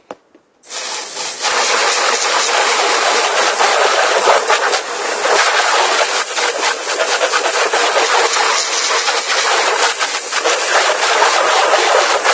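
1/10-scale Exceed short-course RC truck running, a loud, rough hiss full of fine crackle that starts about a second in.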